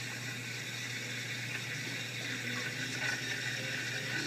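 Steam wand of a Bellman CX-25 electric espresso maker hissing steadily as it froths milk.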